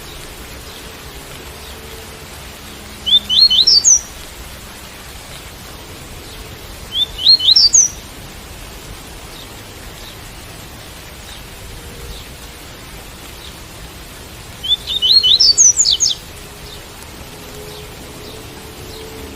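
Double-collared seedeater (coleiro) singing the tui-tui song: three short phrases of quick, rising whistled notes, over steady rain.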